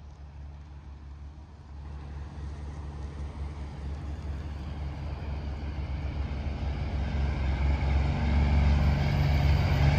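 A semi truck approaching on the interstate: a low engine drone and tyre hiss growing steadily louder as it draws near.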